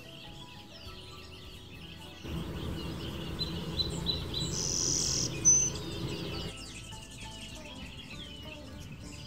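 Small songbirds chirping: many quick, falling chirps, with soft music underneath. From about two seconds in to about six and a half seconds, a louder rushing noise rises over them, and one sharp high chirp stands out near its end.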